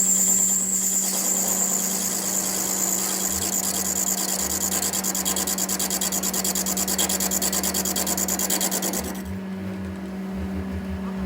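A power tool running with a fast, even rattle over a steady hum, dropping off about nine seconds in.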